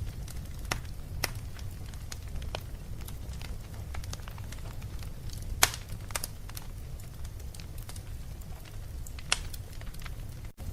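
Fire crackling in a fireplace: a steady low rumble with scattered sharp pops, the loudest about five and a half seconds in and another shortly before the end. The sound drops out for an instant just before the end.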